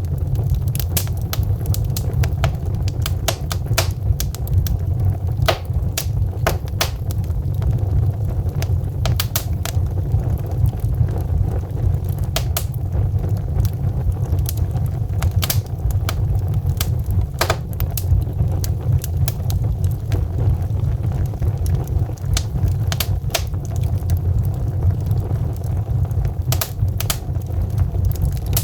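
Wood fire crackling: burning logs giving off irregular sharp pops and snaps over a steady low rumble of flame.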